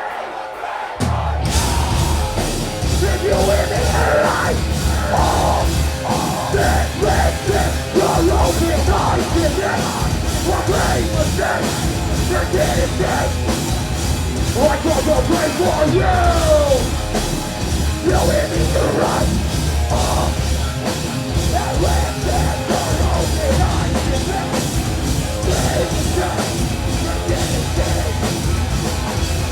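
Live heavy metal band playing an instrumental passage loudly, the full band crashing in about a second in with a heavy, pulsing low end.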